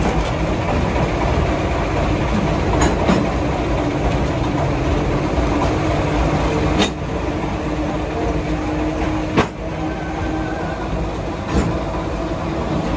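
Moving diesel switcher train heard from an open car coupled to the locomotive: a steady rumble of the engine and of wheels on rails, broken by a handful of sharp clacks.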